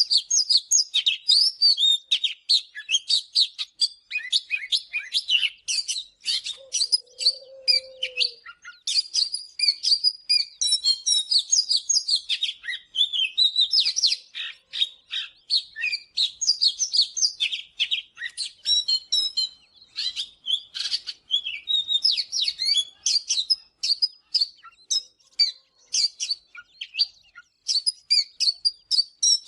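Oriental magpie-robin singing: a fast, unbroken run of varied whistles and chirps.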